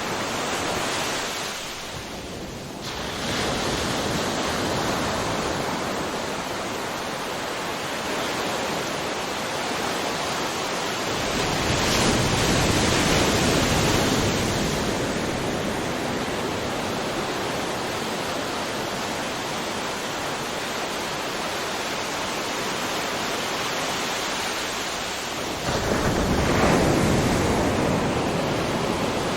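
Ocean waves breaking on a shore: a continuous wash of surf that swells louder twice, about twelve seconds in and again near the end, as waves crash.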